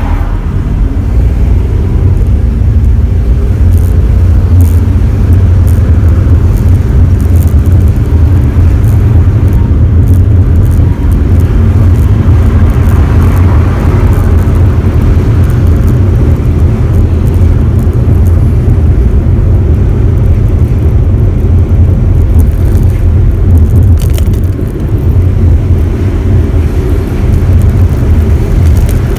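Daihatsu Esse running, a loud steady low drone throughout with a few faint ticks. It is recorded as a 異音, an abnormal noise from the car, which the material does not identify further.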